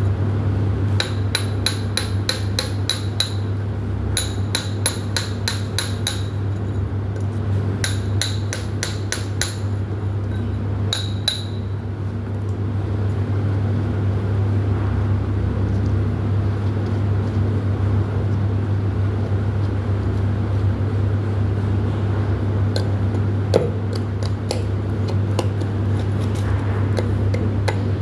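Rapid metallic hammer strikes in four short bursts over the first twelve seconds or so, each strike ringing. A steady low hum runs underneath, and a few lighter taps come near the end.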